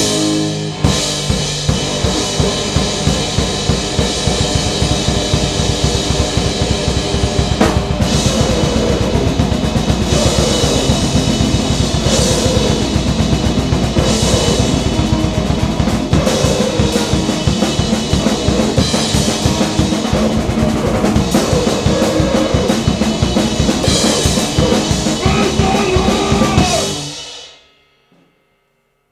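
Grindcore/noise band playing loud and fast: dense rapid drumming under a thick, noisy wall of sound, which stops about 27 seconds in.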